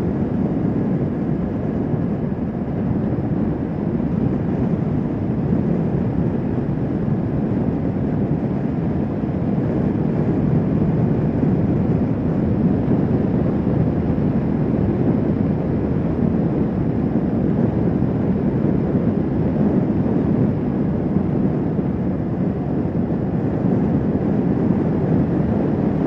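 Kawasaki Vulcan S 650 motorcycle's parallel-twin engine running steadily at cruising speed, heard from the bike, with no change in pitch or load.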